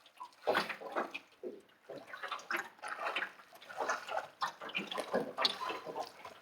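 Lake water splashing and sloshing in quick, irregular bursts as a person moves through it.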